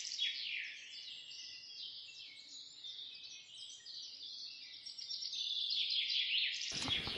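Birds chirping and twittering in many quick, downward-sliding calls, thin and high with no low sound beneath them; the chirping grows louder over the last couple of seconds.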